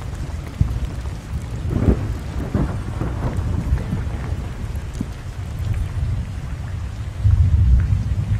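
Low, uneven rumble of wind buffeting the microphone, growing louder near the end.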